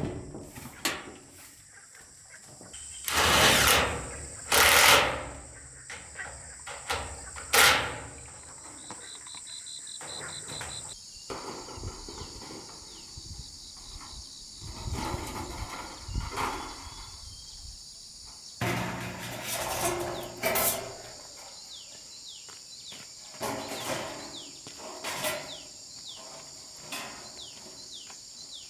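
Irregular knocks, scrapes and rustles of outdoor handwork, with several louder noisy bursts lasting about a second, over a steady high insect drone.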